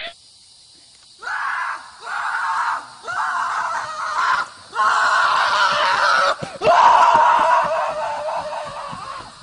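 A series of about six loud screams, each lasting from half a second to two seconds with short breaks between, starting about a second in.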